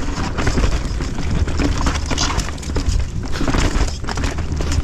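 Mountain bike descending a rough trail: the tyres, chain and frame clatter and rattle with a steady run of knocks over the ground, under a continuous low rumble.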